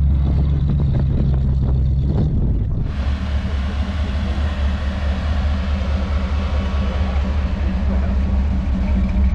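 Classic car's engine running at low revs, a steady low rumble. The sound changes abruptly about three seconds in.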